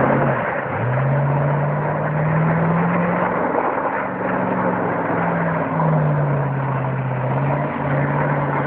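Pickup truck engine revving under load during doughnuts, its pitch climbing and sagging in long swells and dipping briefly a couple of times, with a rough rushing noise over it.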